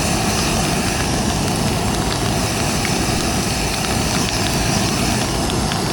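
Backpacking stove burner running, just lit, with a steady rushing hiss, mixed with steady rain and a few faint drop ticks.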